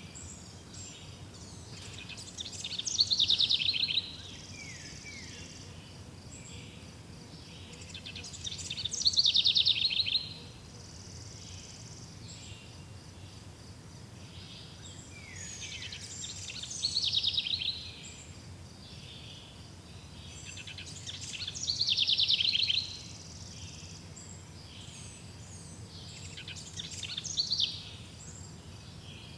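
A songbird repeating the same song five times, about every five to six seconds: each song a quick rapid trill that falls in pitch, lasting under two seconds. A steady high hiss of insects runs underneath.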